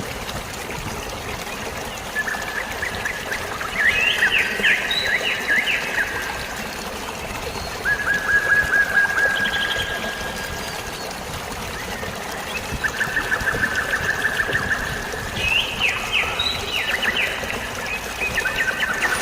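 Steady trickling, flowing water with birds singing over it in short rapid trills, about five phrases spread through the stretch.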